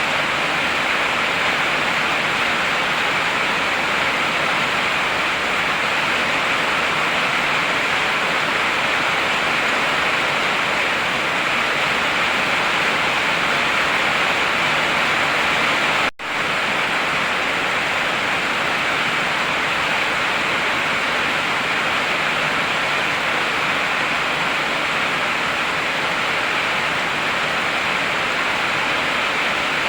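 Heavy rain falling as a steady, even hiss. It drops out for an instant about halfway through.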